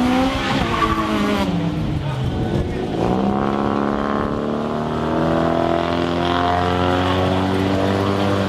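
Car engine revving up and down, then holding a steady high note for several seconds.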